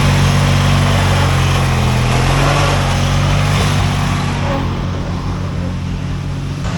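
Racing lawn mower's engine running at a steady speed with a steady drone. The upper noise fades away in the second half.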